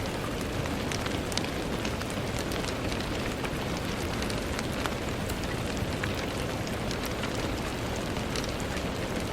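Steady rain falling on a window, a continuous hiss scattered with the ticks of individual drops hitting the glass.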